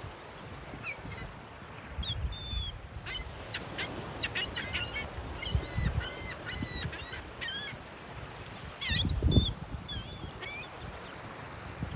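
Seagulls calling repeatedly, a quick run of short calls in the middle, over a steady rush of ocean surf. A low rumble swells briefly near the end.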